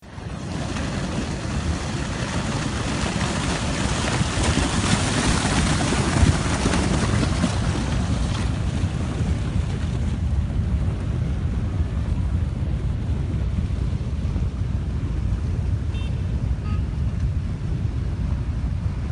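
A rushing mudflow or debris flow, with mud, rocks and water pouring down a slope as a steady, loud rushing noise, loudest in the first half. Wind buffets the microphone.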